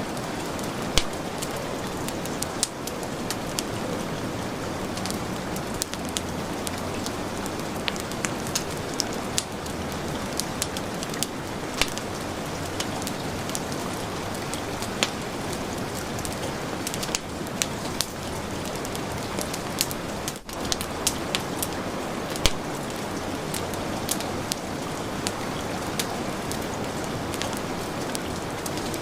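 Heavy rain falling steadily, mixed with a wood fire crackling and popping in sharp, irregular snaps. The sound drops out briefly about twenty seconds in.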